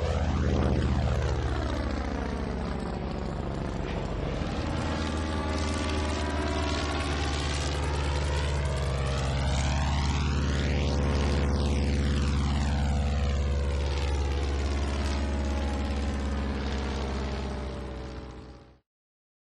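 Propeller aircraft engine droning steadily as the plane flies past, its tone sweeping as it goes over. The sound cuts off suddenly near the end.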